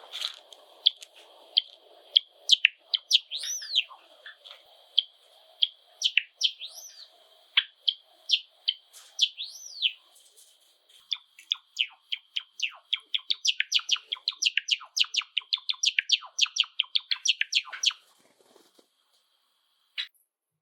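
Java sparrow song: a run of chirps and swooping whistled notes, then a quickening series of rapid clicking notes that stops sharply about eighteen seconds in, with one more note near the end.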